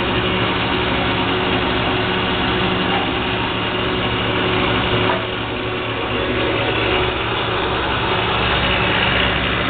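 Jet 14-inch 3-phase, 1 hp vertical bandsaw running free on its highest step-pulley speed: a steady motor hum with the blade and pulleys whirring. It has a slight dip in level about five seconds in.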